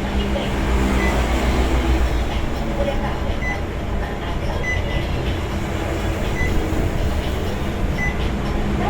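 Steady low mechanical rumble and hum, with short high beeps at uneven intervals.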